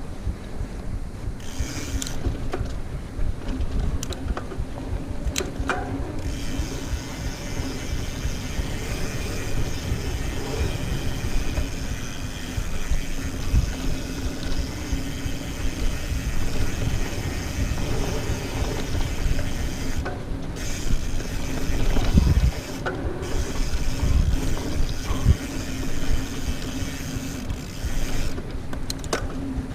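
Mountain bike ridden fast over a rough trail: the bike rattles and clicks over a steady low rumble, with a few sharp knocks from bumps, the loudest about two-thirds of the way through.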